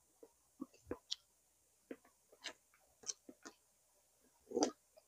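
Mouth sounds of a person eating boiled pig's tail: irregular chewing clicks and lip smacks, with a louder smack near the end.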